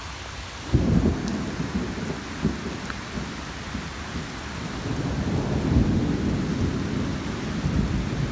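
Steady rain falling, with a low rolling rumble of thunder that starts suddenly about a second in and swells again past the middle.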